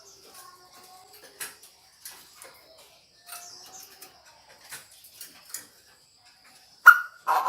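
Faint scattered ticks and soft chirps, then near the end a loud sharp note followed by the start of a loud, harsh call from a Chinese francolin decoy bird.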